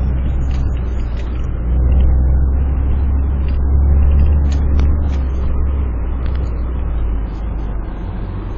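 Vehicle engine and drivetrain heard from inside the cab while driving through snow on studded snow tires: a steady low rumble that grows louder about two seconds in and eases off near the end, with scattered clicks and knocks.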